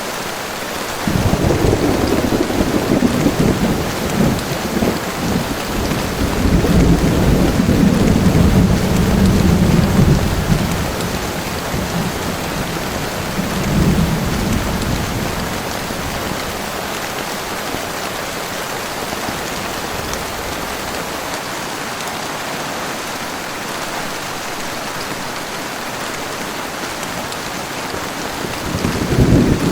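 Heavy rain falling steadily, with a long low roll of thunder starting about a second in and rumbling on for some ten seconds, a shorter rumble a few seconds later, and another roll beginning near the end.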